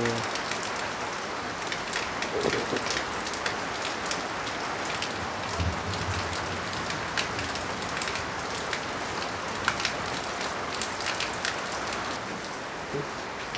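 Light rain pattering on a tin roof and leaves, a steady hiss dotted with many sharp drop ticks, while runoff pours off the roof edge in a thin splashing stream.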